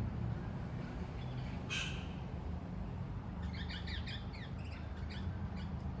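Wild birds calling: one harsh screech about two seconds in, then a quick run of short chattering notes lasting around two seconds. A steady low rumble runs underneath.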